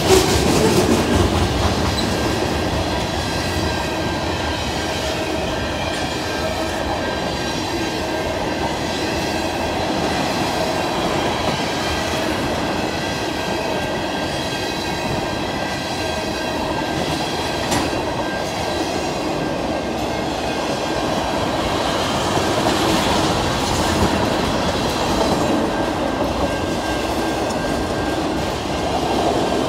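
Freight train cars rolling past: a steady rumble of steel wheels on rail with clickety-clack over the rail joints and a thin, high wheel squeal underneath.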